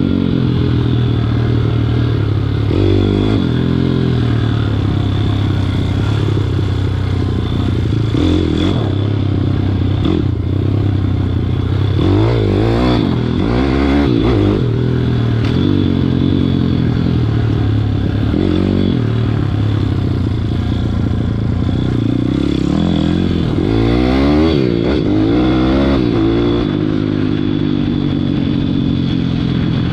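WPB 160 pit bike's single-cylinder engine under way, its pitch climbing and dropping again and again as the throttle is opened and rolled off, with bigger rev swells about a third of the way in, in the middle and again near the end.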